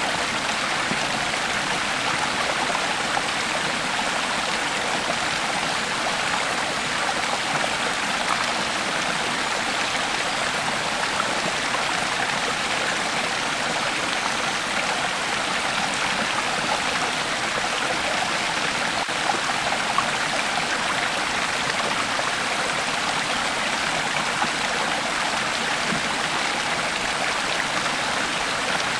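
Creek water flowing steadily over rocks: a continuous, even rushing and babbling with small splashes and trickles.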